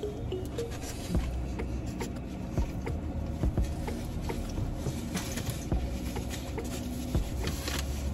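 Chewing and crunching on a crispy fried chicken sandwich, heard as scattered short crunches over a steady low hum inside a car.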